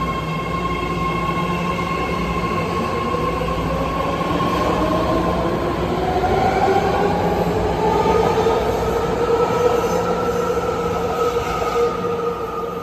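BART Fleet of the Future subway train pulling away: its electric traction motors whine in several tones that rise steadily in pitch as it accelerates, over a steady rumble of wheels on rail.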